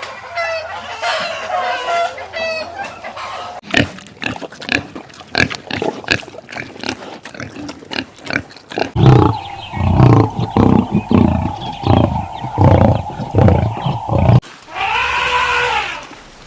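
Farm animal calls in several short clips in a row: pitched calls at first, then scattered clicks, then a loud run of rapid low grunts from about nine to fourteen seconds in, and another pitched call near the end.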